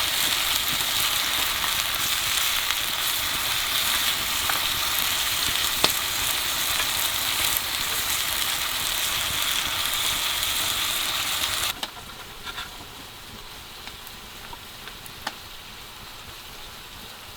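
Food sizzling and frying in a hot pan, a steady hiss that cuts off abruptly about twelve seconds in, leaving a quieter background with a few faint clicks.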